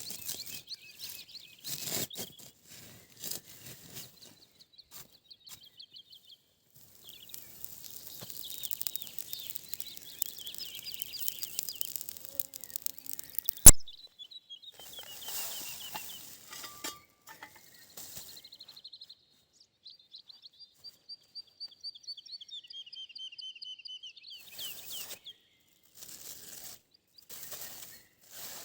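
Small songbirds singing in repeated high trills, over scattered crackles and rustles and a stretch of hiss in the middle. One sharp, loud snap or click comes about halfway through.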